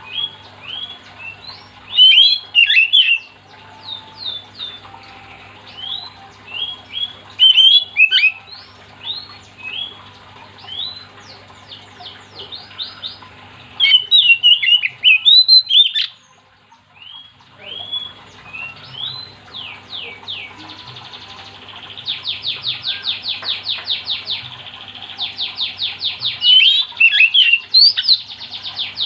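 Oriental magpie-robin in full song: loud, varied whistled phrases with sharp chips and harsh notes, breaking into a fast rattling run of repeated notes, several a second, near the end. A faint steady low hum runs underneath.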